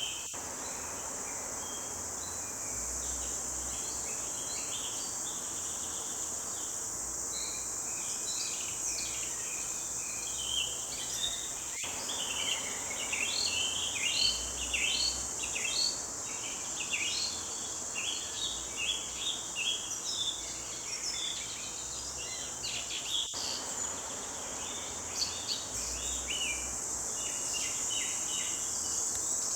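Several birds singing in a forest: many short chirps and trills, busiest from about ten seconds in, over a steady high insect buzz.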